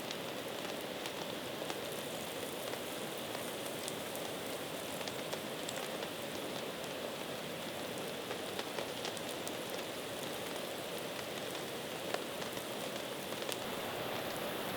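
Steady rain falling, with individual drops striking sharply here and there.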